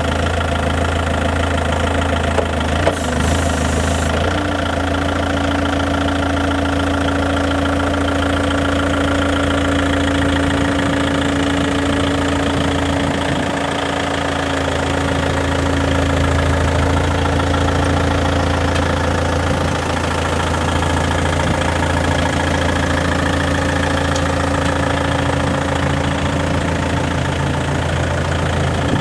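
Still RC40-35 diesel forklift engine idling steadily, with a steady tone joining about four seconds in and fading near the end.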